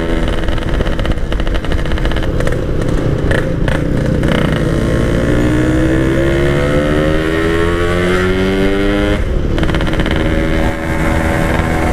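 Two-stroke motorcycle engine with a Packing Power aftermarket exhaust, riding. The engine pitch climbs steadily for several seconds as it accelerates, falls sharply about nine seconds in as the throttle is eased or a gear changes, then runs steady.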